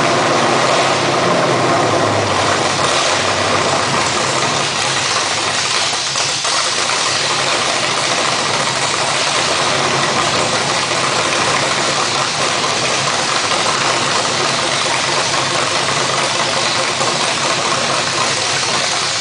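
V8 car engine running steadily at idle, with a dense noisy wash over its low rumble.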